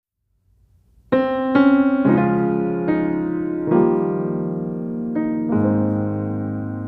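Background music of slow piano chords, starting about a second in after a short silence, each chord held and fading before the next.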